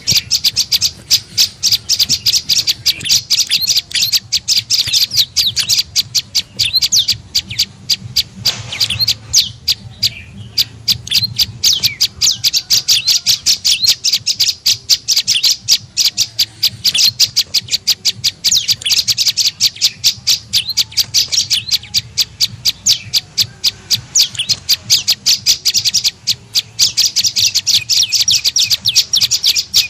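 Prenjak lumut bird calling as a lure call: a fast, unbroken run of sharp, high chirps repeated several times a second, pausing briefly about ten seconds in.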